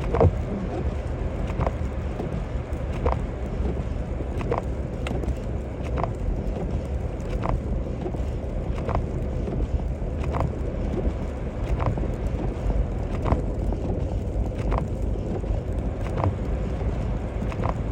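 Steady low road and engine rumble of a Toyota Tacoma pickup driving in snow, heard through the windshield. The windshield wipers thump at the end of each sweep, about once every second and a half.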